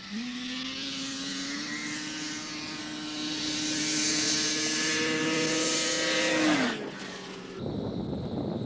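Racing snowmobile engine launching on a grass drag run: it jumps to a high, steady pitch almost at once and holds it, getting louder as the sled comes down the track, then falls away about seven seconds in.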